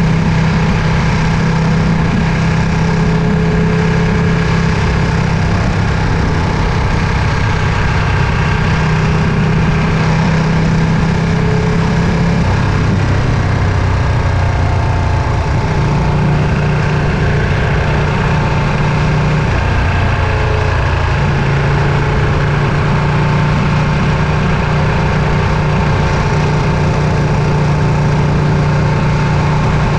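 Ducati Panigale V2's 955 cc L-twin engine running steadily, its pitch dipping slightly and stepping back up a few times as the revs change.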